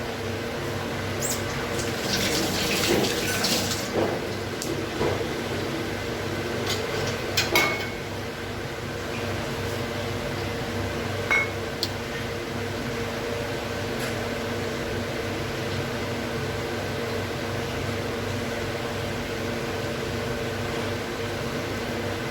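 A steady mechanical hum from a household appliance or fan. About two seconds in, water runs or splashes for a second or two, with a few clicks and clinks; a couple of sharp clinks follow later.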